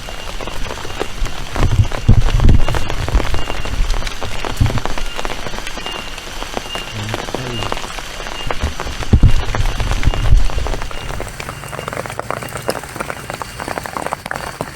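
Rain falling, a dense, steady patter of drops. Heavy low rumbles come twice, about two seconds in and again around nine to ten seconds, and are the loudest moments.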